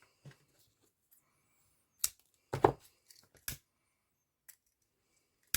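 Scissors cutting a strip of ribbon shorter: a few sharp snips and clicks, the loudest just over two and a half seconds in.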